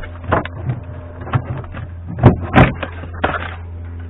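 Several sharp knocks and clattering rustles of car interior trim and headliner being pulled and worked loose, the loudest pair a little over two seconds in, over a steady low hum.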